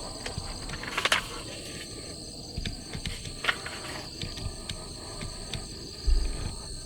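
Insects chirping in a steady, high-pitched chorus, with scattered sharp clicks and taps, the strongest about a second in. A short low thump near the end is the loudest sound.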